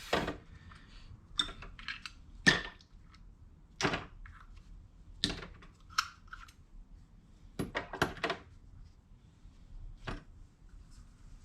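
Small metal and rubber steering-rack parts such as bolts and bushings being dropped one at a time into an ultrasonic cleaner, giving a string of short sharp clinks and knocks, a few in quick succession about two-thirds of the way through.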